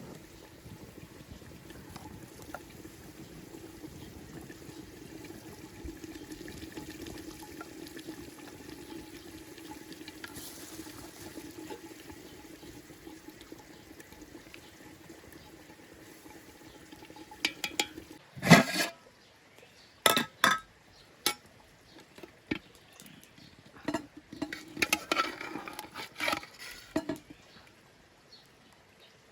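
Liquid bubbling steadily in a cooking pot, then a loud knock about eighteen seconds in, followed by a run of clinks and knocks of utensils against cookware.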